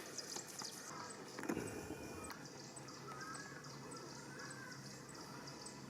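Faint outdoor ambience with short, warbling animal calls and a regular high ticking about twice a second. A soft thump about a second and a half in.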